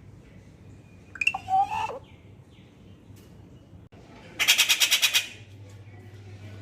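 Rufous treepie calling: a short harsh call with bending notes about a second in, then a fast rattle of about eight notes a few seconds later.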